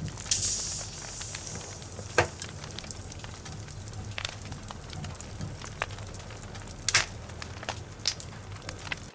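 Logs burning in a fireplace: a steady low hiss with irregular sharp crackles and pops, the loudest about two seconds in and again about seven seconds in, and a brief hissing flare near the start.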